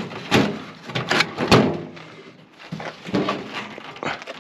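Sharp knocks and clunks of a microwave oven transformer and the oven's sheet-metal casing being handled as the transformer is put back into the opened microwave. The hardest hit comes about a second and a half in, with softer knocks around three seconds.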